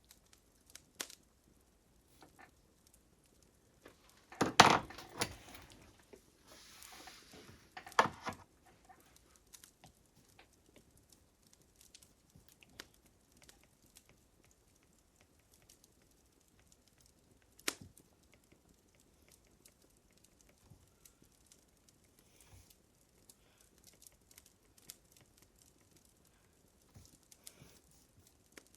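Fire crackling: scattered small pops and snaps, with a louder burst of cracks about four and a half seconds in, a brief hiss, and another sharp crack about eight seconds in.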